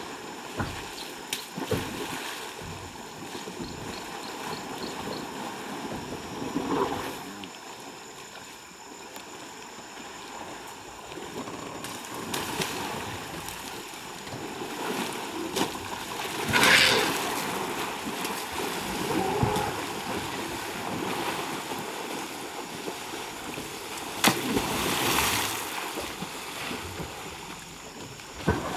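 Elephants splashing water as they bathe in the river, with three louder splashes about 7, 17 and 25 seconds in; the splash near 17 seconds is the loudest.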